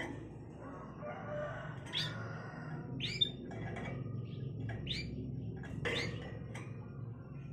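Canary calling in a string of short chirps and rising whistles, about one a second, over a steady low hum. The canary is coming into breeding condition.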